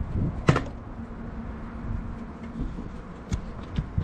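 Wind rumbling on the microphone, with a sharp click about half a second in and a few lighter clicks and knocks near the end.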